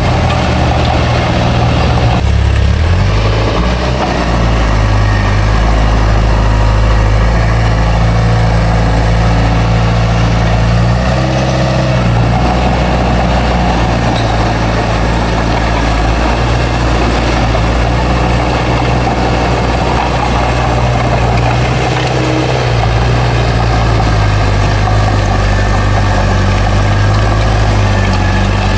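Heavy diesel engine of an earthmoving machine running steadily at a loud level, its engine note shifting up and down a few times as the load changes.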